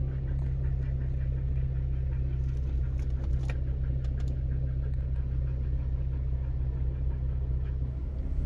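2012 Jeep Wrangler's 3.6-litre V6 running as it drives slowly along a dirt trail, heard from inside the cabin as a steady low drone, with a few faint clicks about three seconds in.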